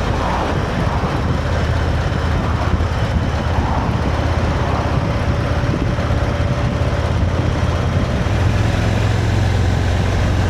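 Motorcycle engine running steadily while riding, with wind rush over it.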